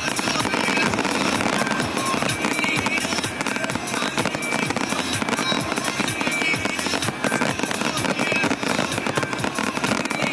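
Fireworks going off in rapid crackling bursts, one after another, with music playing underneath.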